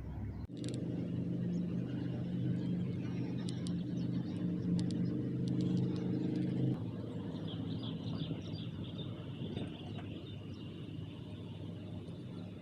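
A motor vehicle's engine running at a steady pitch, which cuts off abruptly about seven seconds in, leaving fainter road noise with a few light clicks.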